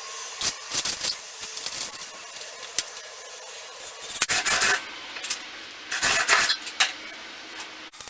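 Wood rubbing and scraping in short strokes as pieces are handled and fitted, with two longer, louder scrapes about four and six seconds in.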